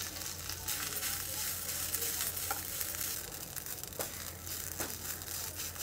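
Grated fresh coconut sizzling in hot ghee in a nonstick pan while it is stirred with a spatula, with a few soft clicks as the spatula moves.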